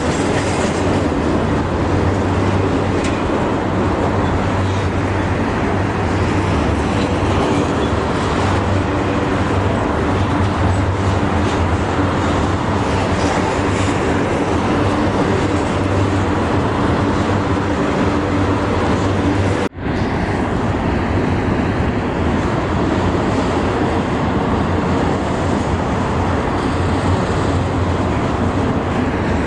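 Canadian National container train rolling past, a steady rumble of wheels on rail with a low hum. The sound drops out for an instant about two-thirds of the way through.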